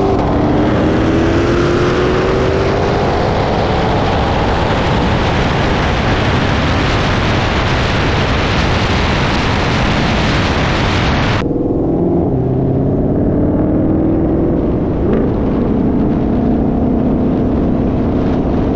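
A BMW M3 Competition and a Ford Shelby GT500 at full throttle in a roll race, the engine note rising in pitch over the first few seconds under heavy wind and road roar. About eleven seconds in the wind roar drops off abruptly, leaving a lower, steadier engine drone at a slower speed.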